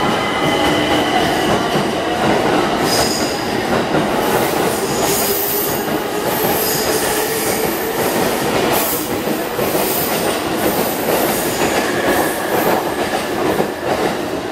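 A JR East limited express train pulling out of the platform, its cars rolling past close by with a steady rumble of wheels on rail. Irregular sharp clacks from the wheels start about three seconds in.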